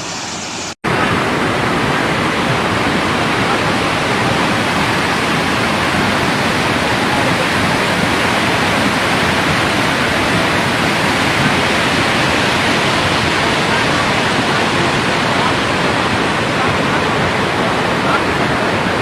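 Floodwater rushing, a loud, steady, unchanging roar of fast-flowing water that starts abruptly about a second in.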